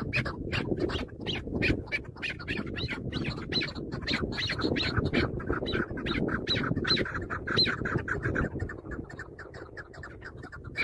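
Chukar partridge calling: a fast, even run of harsh chucking notes, about five a second.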